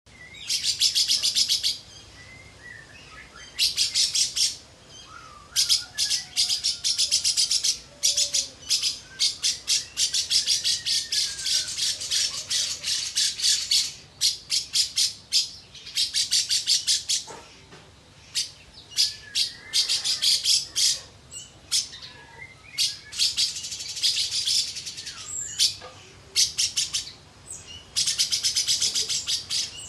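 A lovebird singing in long bursts of rapid, high chattering trills, each lasting one to two and a half seconds, with short pauses of softer whistled and gliding notes between them.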